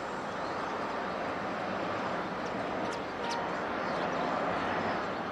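Steady rushing roar of jet aircraft engines, with a couple of short high chirps about three seconds in.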